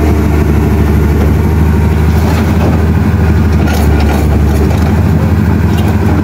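A vehicle engine idling steadily close by, with a strong low hum and no revving. A few light clicks come two to four seconds in.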